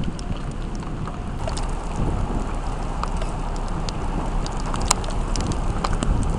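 Strong wind rumbling steadily over the microphone and chase vehicle, with scattered sharp ticks of rain striking it.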